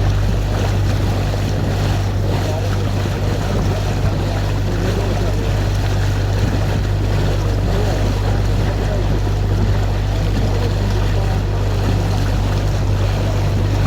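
Canal tour boat's motor running steadily with a constant low hum, under a wash of wind and water noise.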